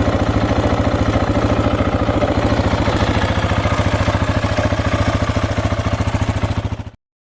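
KTM 690's single-cylinder engine idling steadily with an even, fast pulse, freshly filled with new oil after an oil change. The sound cuts off suddenly near the end.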